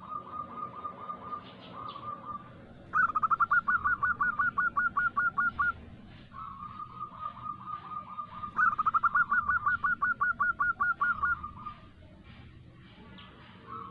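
Zebra dove (local perkutut) giving rapid trills of short staccato coo notes. The recording is labelled as a female calling to draw males. Two louder, faster trills come about three seconds in and again near nine seconds, with softer trills between them.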